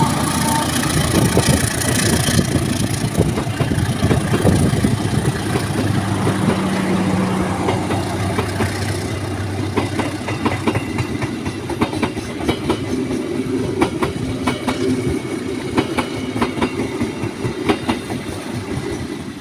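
Diesel-hauled passenger train passing. The locomotive's engine drones in the first half, then the carriages' wheels clack over rail joints in quick repeated clicks, easing off slightly near the end.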